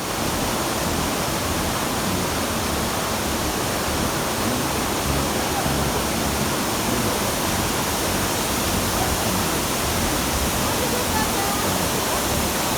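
Waterfall: steady, dense rush of falling water, unbroken throughout.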